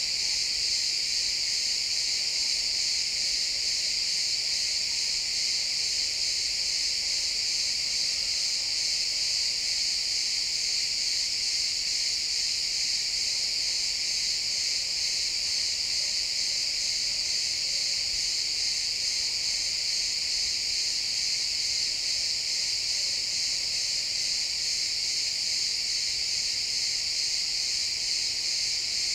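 Many crickets chirping together in a steady, dense high-pitched chorus that never lets up.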